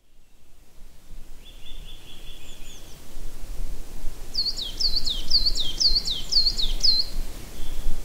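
Birdsong fading in over a low steady rumble: first a short trill, then a songbird repeating a high, downward-sliding note six times, about two a second.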